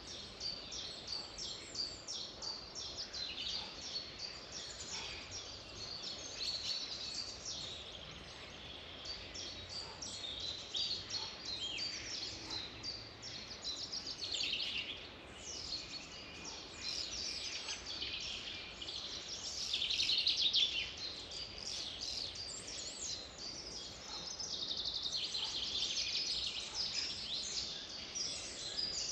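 Several songbirds singing and calling at once, a dense chorus of quick chirps and trills over a faint steady hiss, loudest about two-thirds of the way through.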